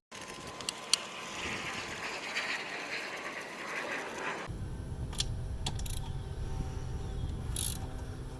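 Ratchet wrench clicking quickly as the engine-to-deck bolts are run in and tightened. About halfway through the sound changes: a low hum comes in and the clicks come one at a time.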